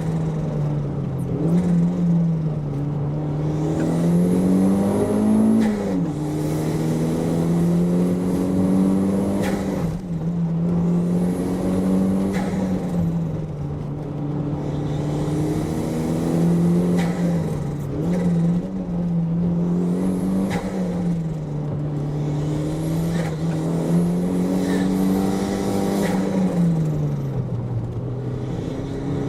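Toyota MR2's engine driven hard on a hill-climb run, revving up and dropping back every few seconds as it accelerates between corners and slows for them.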